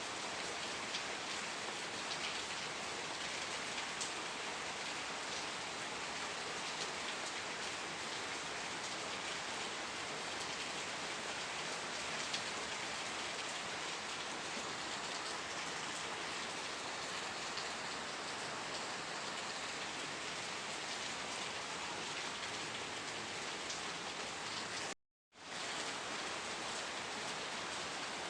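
Steady rain falling, an even hiss with scattered drops ticking. The sound cuts out to silence for a fraction of a second near the end, then resumes.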